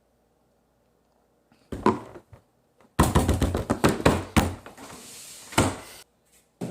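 A person taking a swallow from a cup and gagging, with sharp knocks from the cup being handled. The loudest stretch is a dense run of clattering sounds about three seconds in.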